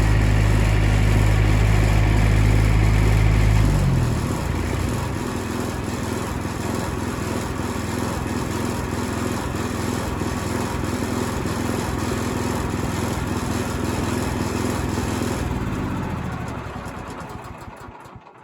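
Gasoline engine of a sawmill running at high revs, then throttled back about four seconds in to a lower, steadier run, and dying away near the end.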